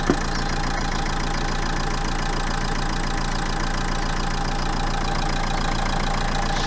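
Renault 1.5 dCi four-cylinder common-rail diesel engine idling irregularly, the sign of a bad injector. There is one short knock just after the start.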